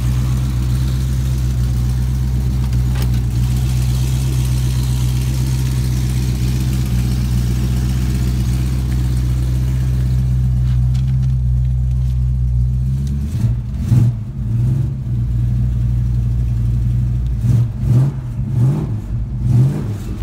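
A 1970 Dodge Coronet R/T's V8 idling steadily, then revved in a series of short blips, rising and falling in pitch, from about two-thirds of the way in.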